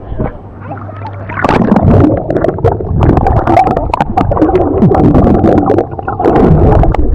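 Water splashing and sloshing close to the microphone, with many sharp knocks mixed in.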